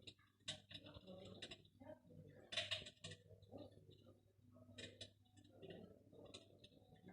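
Faint, irregular clicks and ticks at near silence over a low hum, one louder cluster about two and a half seconds in.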